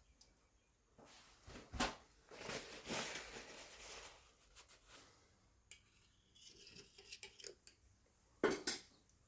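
Workshop handling sounds: scattered clicks and knocks, a stretch of scraping about two to four seconds in, and a sharper knock near the end.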